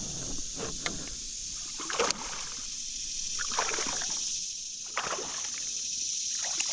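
Water splashing and sloshing in a few short, irregular bursts.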